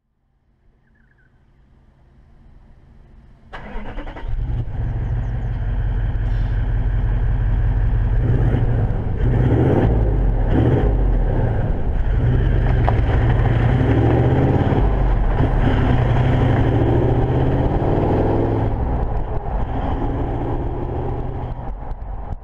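Toyota 70 Series LandCruiser Troop Carrier's V8 turbo-diesel running through a 3-inch mandrel-bent stainless exhaust, a loud deep exhaust note. It comes in suddenly a few seconds in, rises and falls in pitch through the middle, and fades near the end.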